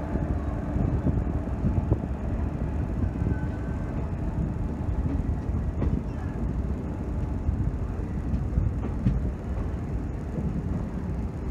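Passenger train rolling slowly through a station, heard from the coach doorway: a steady rumble of wheels on the rails with a few faint clicks.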